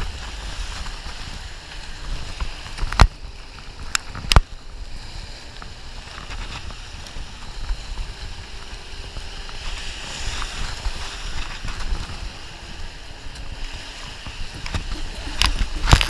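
Stand-up paddleboard paddling on a whitewater river: steady rushing water, with wind buffeting the microphone. Sharp knocks come about three seconds in and twice more a second later, and again near the end.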